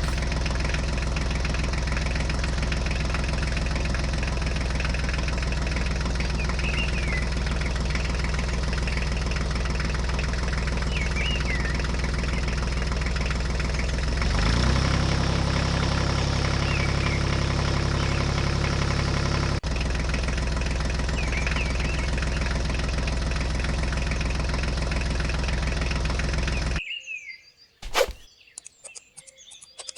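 Small engine running steadily, its note shifting about halfway through, then cutting off suddenly near the end. Birds chirp in the background, and a sharp click follows the stop.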